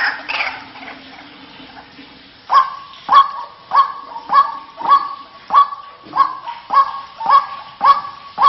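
White-breasted waterhen (ruak-ruak) calls from a lure-call recording. A louder, varied calling fades out at the start. After about two seconds of quiet, a steady run of sharp, repeated calls begins, about one every 0.6 seconds.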